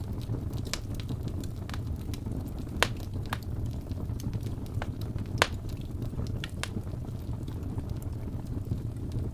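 Wood fire burning with a steady low rumble and scattered sharp crackles and pops, two louder pops about three and five and a half seconds in.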